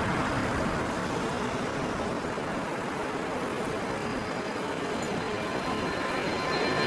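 Steady roar of airport and road traffic noise, dipping slightly in the middle and swelling again near the end, when a thin high engine whine starts to come through.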